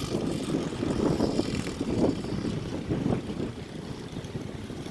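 Small dirt bike engine running, its sound rising and falling unevenly, swelling several times in the first three seconds and easing off after.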